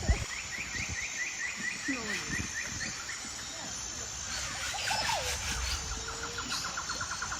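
Birds calling in the forest: a fast trill of short repeated high notes for the first few seconds, a few gliding calls in the middle, and another, lower trill starting near the end.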